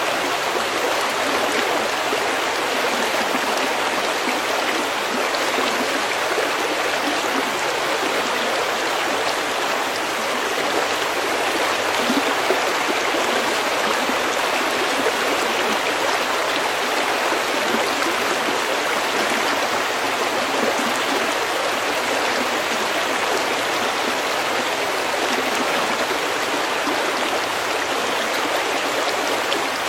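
Snowmelt stream water flowing over pebbles: a steady, even babble and rush of running water.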